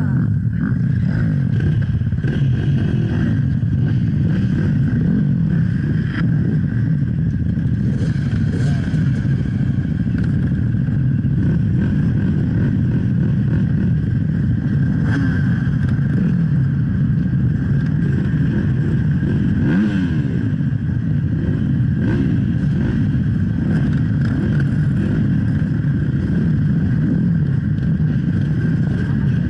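Off-road enduro motorcycle engine running under load, its pitch rising and falling continuously as the throttle is worked.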